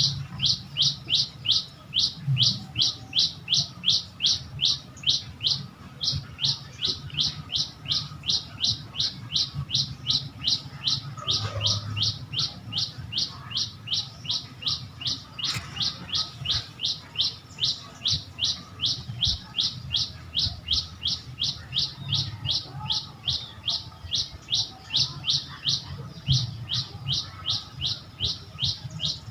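A bird calling a long, unbroken series of short, high, even notes, about three a second, over a faint low background hum.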